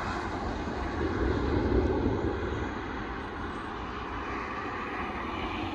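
Steady low rumble of a moving vehicle and road noise, swelling louder about a second in and easing back after a couple of seconds.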